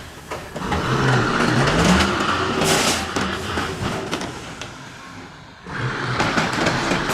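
A vehicle engine revving up, its pitch rising, with a loud hiss about three seconds in. The sound then fades, and near the end a different engine sound cuts in abruptly.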